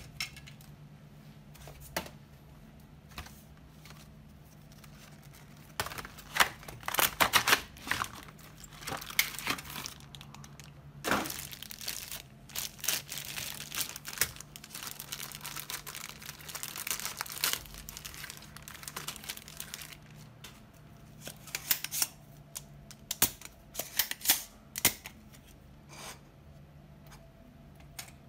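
Irregular clicks, rattles and scraping noises, in clusters, over a steady low hum.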